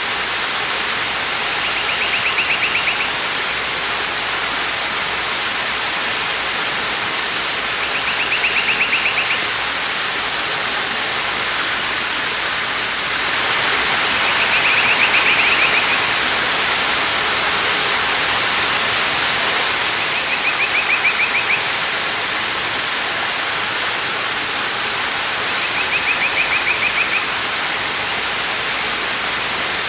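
A waterfall rushing steadily, swelling a little about halfway through. Over it, a short rapid trill repeats five times, about every six seconds.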